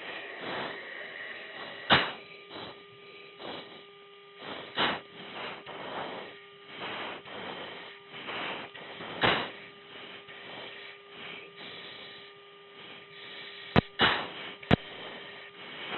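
Sharp, noisy breaths every few seconds through an oxygen-mask microphone on a fighter jet's intercom: the rhythm of the anti-G straining manoeuvre during a high-G pull. A steady intercom hum and hiss run beneath, and two sharp clicks come near the end.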